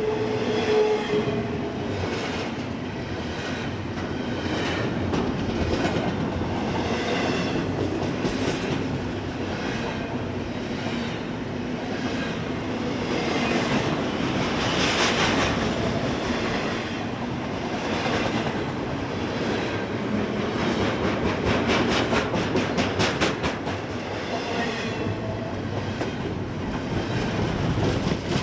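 Freight train cars rolling past: a steady rumble of steel wheels on rail with rhythmic clickety-clack as wheelsets cross rail joints, including a quick run of clicks about three quarters of the way through.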